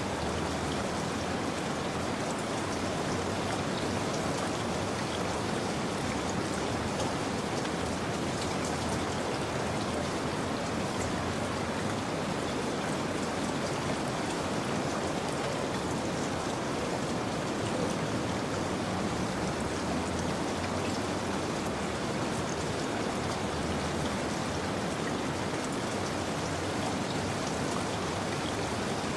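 Steady rain falling, with a dense patter of raindrops on a surface.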